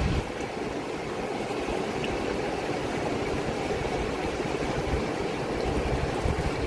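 Fast-flowing river rushing steadily, with wind buffeting the microphone at the start and again near the end.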